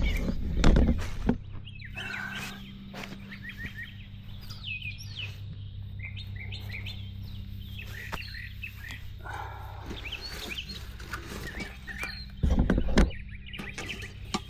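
Small birds chirping and calling over a steady low hum. There are loud rustling handling noises in the first second and again near the end.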